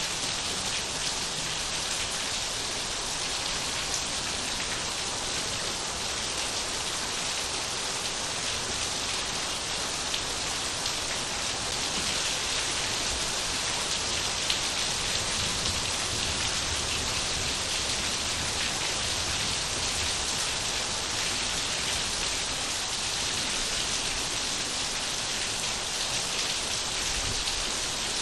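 Steady rain falling, a dense even hiss of drops with faint individual drop ticks.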